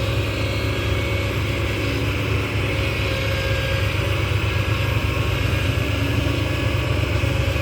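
Diesel engine of a ten-wheel dump truck running steadily as it pulls a heavy load of soil, a continuous low pulsing drone; the truck is loaded to over ten tonnes.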